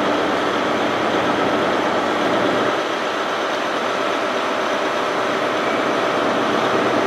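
Steady mechanical hum and rumble of trains idling at a busy railway terminus, the deepest part of the rumble easing about three seconds in.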